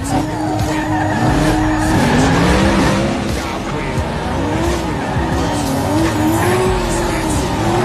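Supercharged big-block truck engine revved up and down over and over in quick rising and falling sweeps, with a harsh hiss over it.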